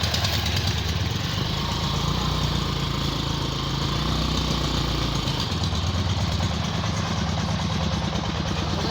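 Engine running steadily, its tone shifting lower for a few seconds from about a second in.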